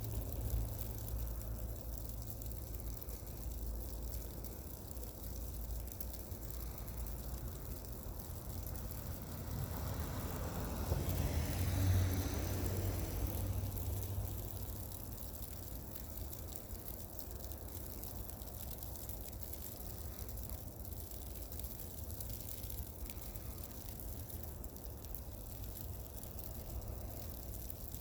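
Steady low rumble, with a vehicle passing on a slushy, snow-covered road about halfway through: its tyre hiss swells and fades over a few seconds.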